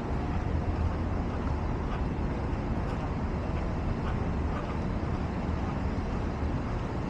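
Steady city street noise: a low rumble of road traffic going by.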